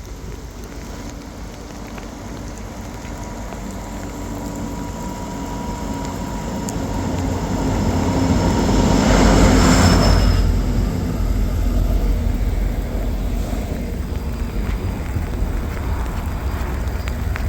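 EMD SD70MAC diesel locomotive approaching and passing below, its engine growing louder to a peak about ten seconds in, then the steady rumble of the loaded autorack cars rolling past.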